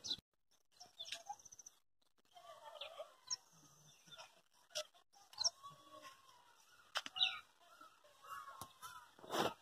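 Faint birds chirping and calling, with short high chirps and some lower warbling calls. A brief rustling thump near the end.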